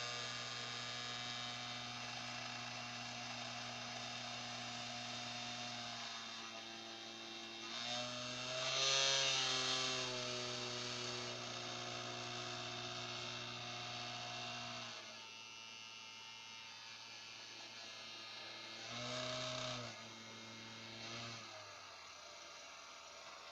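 Small motor driven by a PWM speed controller, shaking a homemade vibration washer for circuit boards, running with a steady electric hum and whine. About a third of the way in it speeds up and gets louder, its pitch wavering. It drops to a lower, quieter hum after the middle and surges briefly once more near the end.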